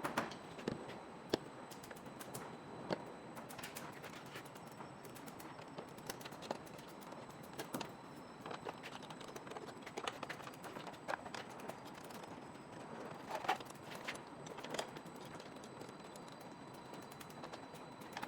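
Scattered light clicks and knocks at an irregular pace over a steady faint hiss, typical of workshop clatter.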